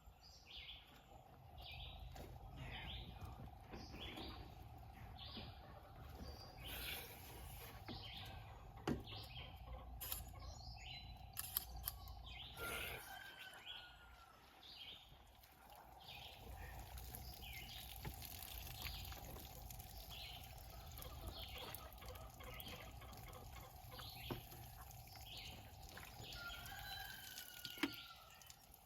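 Birds chirping, with short high calls repeating about once or twice a second over a steady low hum, and a few sharp knocks.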